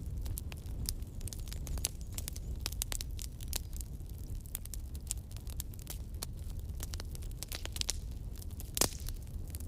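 Campfire crackling, with frequent sharp pops and one louder pop near the end, over a steady low rumble.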